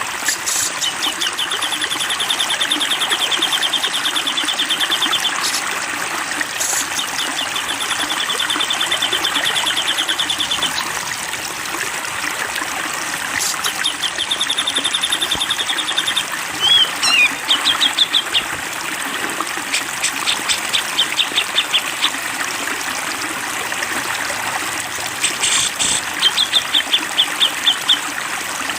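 A songbird singing fast, even, high trills of about three seconds each, three times, then shorter rapid series of clicking notes. Under it all runs a steady rush of flowing water.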